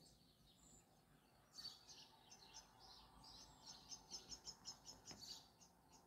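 Faint bird chirping in the background, with a run of quick repeated high notes, about four a second, in the second half. A single soft tap about five seconds in.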